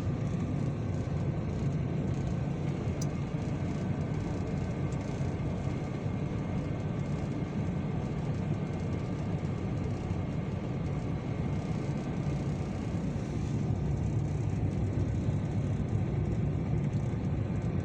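Vehicle engine running steadily, heard from inside the cab, just after a hard cold start in frost while its oil warms up.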